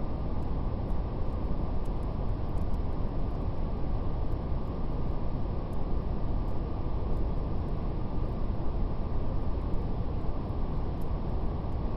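Steady brown noise: an even, deep hiss weighted to the low end, with faint scattered crackles of a wood fire.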